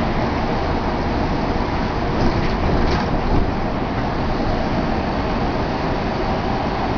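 Steady rumbling noise of vehicles, with a few faint brief sounds about two to three seconds in.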